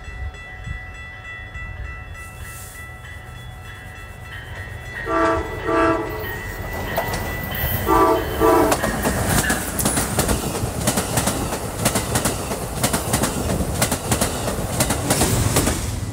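An approaching diesel passenger train sounds its horn in four short blasts, two pairs about three seconds apart. It then draws closer and passes at speed, the rumble growing louder and the wheels clicking rapidly over the rail joints.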